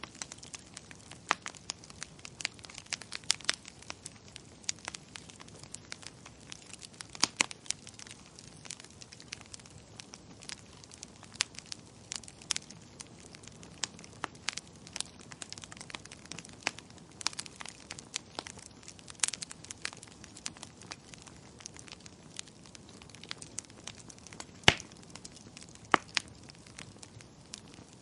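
Wood fire crackling: irregular sharp pops and snaps over a soft hiss, with one louder snap about three-quarters of the way through.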